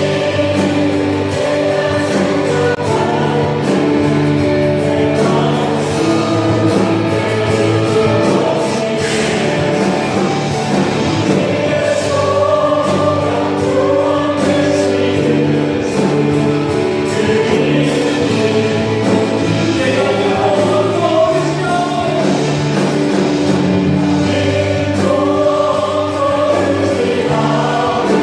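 A church praise team singing a Korean worship song together in chorus, with instrumental accompaniment holding steady low notes under the voices.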